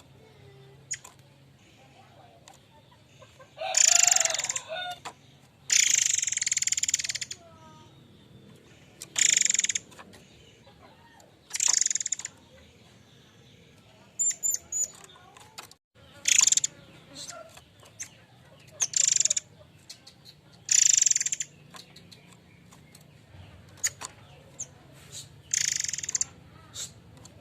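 Murai air mancur bird calling: about ten harsh, rasping calls of half a second to a second and a half each, repeated every two to three seconds, over a faint low hum.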